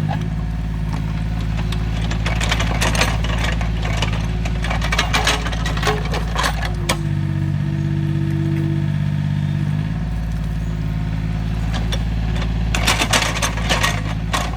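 Small excavator's engine running steadily, with bouts of clattering and scraping about two seconds in and again near the end as the machine works the ground.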